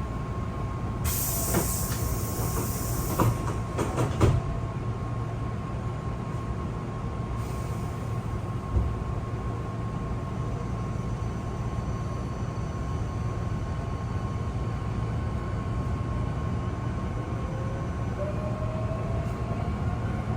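Inside an electric commuter train: the doors close with a hiss of air and several knocks about a second to four seconds in, then the carriage rumbles steadily on the rails. Near the end a rising motor whine sets in as the train gathers speed.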